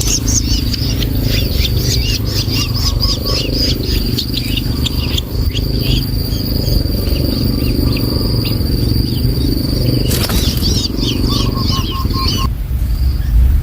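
Long-tailed shrike nestlings chirping in quick, repeated short calls, with a steady high-pitched tone holding for several seconds in the middle and a constant low rumble underneath.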